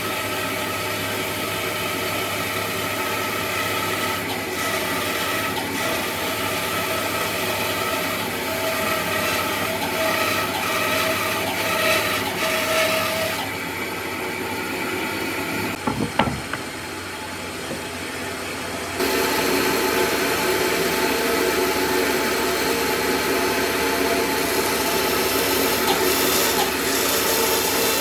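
Electric power tool working wood: a steady motor tone under rubbing and abrading of wood. The sound changes abruptly twice, and there are a couple of sharp knocks about halfway through.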